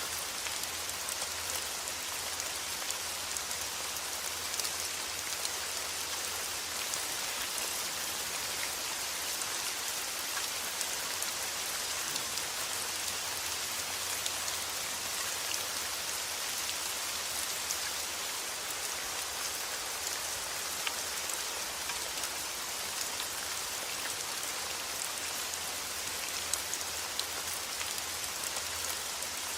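Steady rain falling on a surface, an even hiss with many fine patters of drops.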